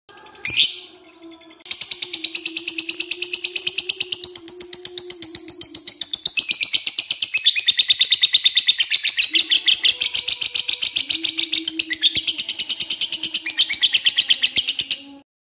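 Lovebird ngekek: after a brief call at the start, one long, unbroken chattering trill of high, rapidly repeated notes, about eight to ten a second, that cuts off suddenly near the end. This long ngekek is the sign of a lovebird in full song (gacor).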